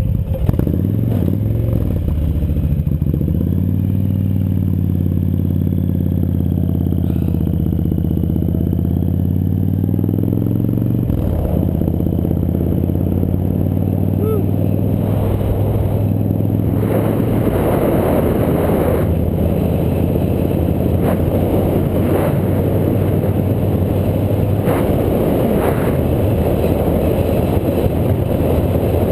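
Old Hero motorbike's small engine running at a steady speed, then from about eleven seconds in a rougher rumble as the bike rides on, with wind buffeting and rattles.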